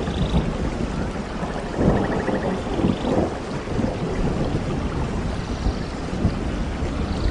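Steady heavy rain with low rumbling thunder that swells about two seconds in and again a second later.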